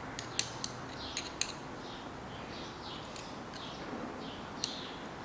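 Small birds chirping repeatedly in the background, with a few sharp clicks: four in the first second and a half and one more near the end.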